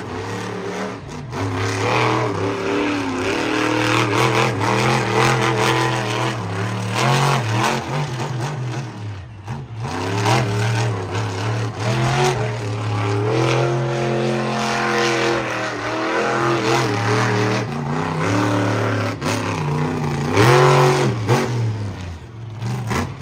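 Monster truck's supercharged V8 engine revving hard and easing off again and again, its pitch climbing and falling with the throttle. The note drops out briefly twice, and the loudest rev comes near the end.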